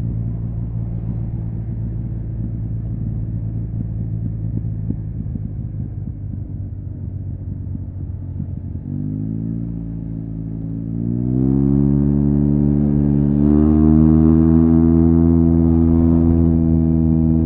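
Yamaha TMAX 560's parallel-twin engine through an Akrapovic carbon full-system exhaust, idling with a rough, uneven rumble. About nine seconds in the revs climb, rising again in steps and held high and loud, then they fall away at the very end.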